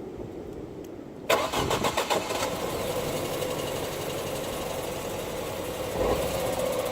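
Ford Focus 1.5 EcoBoost turbocharged four-cylinder petrol engine cranking and catching about a second in, then idling steadily, with a brief rise in level near the end. The car has a recurring misfire, usually logged on cylinder 3, that tends to clear once the engine is warm.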